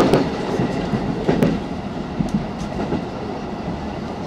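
Inside a 313 series electric multiple unit running at speed: a steady rumble of wheels on rail, with irregular clusters of clattering knocks as the wheels cross rail joints and points.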